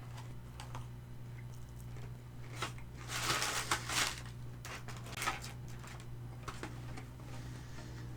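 Close-miked eating sounds of crispy Korean fried chicken being handled and eaten: scattered small clicks, with a denser burst of crisp crackling about three seconds in and another near five seconds, over a steady low hum.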